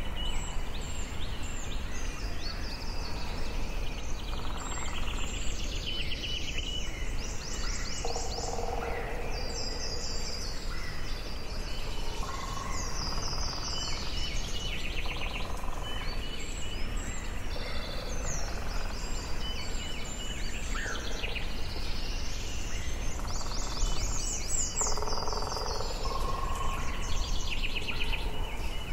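Forest ambience: several birds singing at once, overlapping trills and chirps throughout, over a steady low rumble of background noise.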